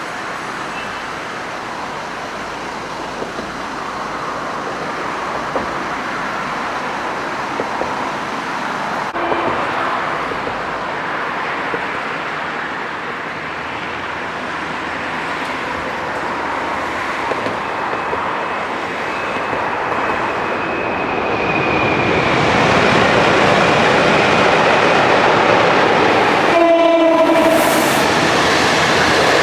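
Train rolling along the track, its rail noise growing louder as it draws near, then one short locomotive horn blast of about a second and a half near the end.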